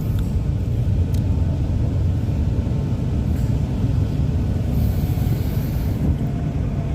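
Steady low rumble of a metro train standing at its terminus station.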